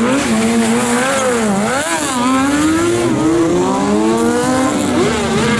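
A vehicle engine, car or motorcycle, revving up and down repeatedly, its pitch rising and falling several times with a sharp drop and climb about two seconds in.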